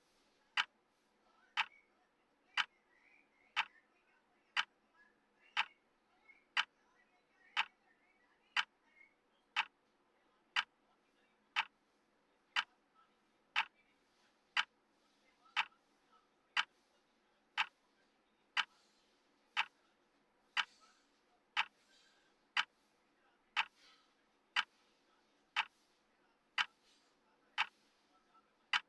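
Clock ticking steadily at one sharp tick per second, the tick track of a countdown timer.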